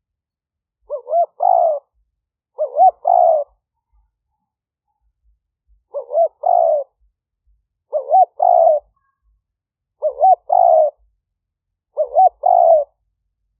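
Spotted dove cooing: six phrases about two seconds apart, each two short rising coos run into a longer one, against a silent, noise-cleaned background.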